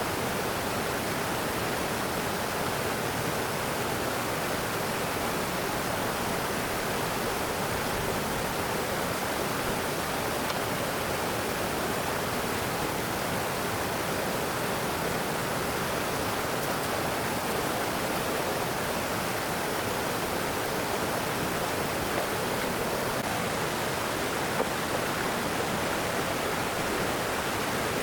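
Steady rushing of fast-flowing stream water: an even, unbroken wash of noise.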